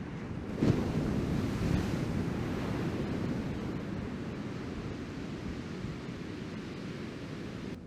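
Ocean surf: a wave breaks about half a second in and its wash slowly fades, with wind buffeting the microphone.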